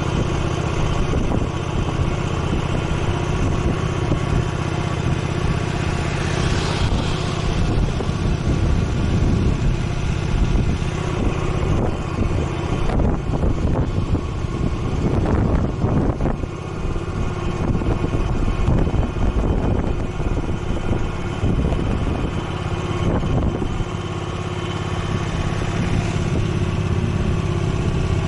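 Motorcycle engine running steadily, with a low, even engine note.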